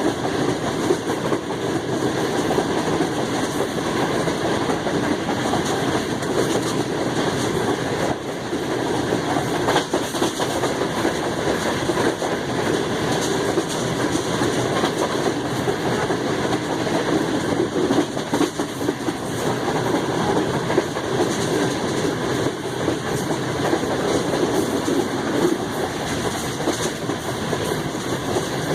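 Passenger train running at speed, its wheels giving a steady track rumble, with a few faint clicks from the rails now and then.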